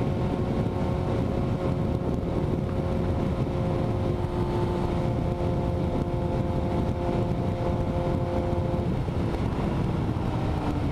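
Motorcycle engine running at a steady cruise with wind rumble on the microphone. Near the end the engine note drops and slowly falls in pitch.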